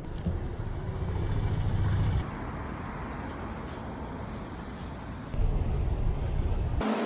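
Outdoor city street ambience with a steady traffic rumble, changing abruptly several times as the recording cuts between short clips.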